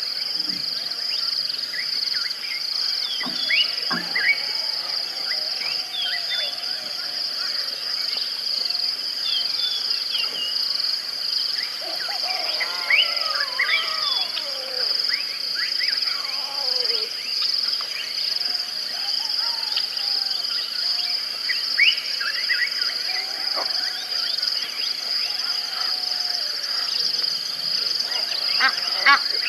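Outdoor wildlife ambience: a steady high-pitched insect drone throughout, with many birds chirping and whistling over it, and a quick run of repeated chirps near the end.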